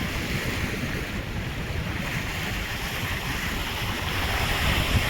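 Ocean surf breaking and washing, swelling louder about two seconds in and again near the end, with wind buffeting the microphone.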